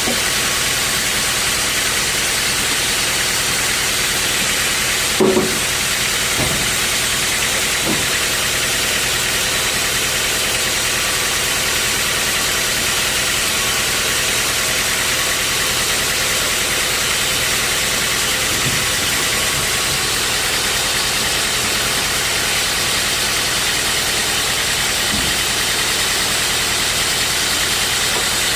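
Sawmill machinery running steadily with a constant hiss-like noise. There is a sharp knock about five seconds in and a few fainter knocks later.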